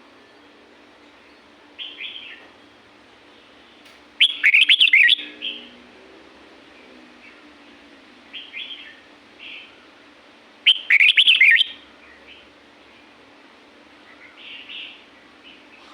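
Red-whiskered bulbul singing: two loud, quick warbling phrases about six seconds apart, with softer short chirps between them.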